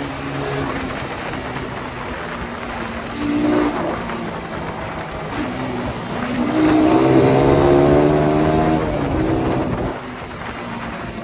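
Suzuki Satria FU 150's single-cylinder four-stroke engine running through its exhaust, revving up briefly about three seconds in, then climbing in a longer, louder rev from about six seconds in before dropping back near the end.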